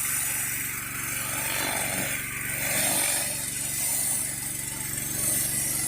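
Gas pressure washer engine running steadily under load, with the continuous high hiss of water jetting from a Whisper Wash 16-inch surface cleaner onto concrete.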